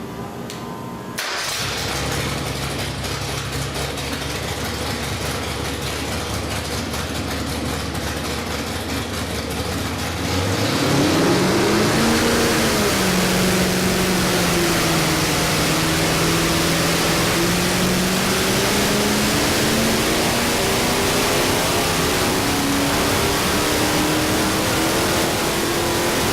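Ford 434 cubic-inch FE stroker V8 running on an engine dyno: it comes in suddenly about a second in and idles, then about ten seconds in it is revved and loaded into a dyno pull, getting louder, its pitch climbing slowly and steadily as the revs build under load.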